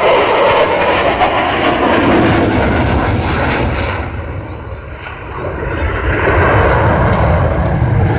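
Fighter jet's engine noise during a display pass: loud and steady, dipping about five seconds in and building up again.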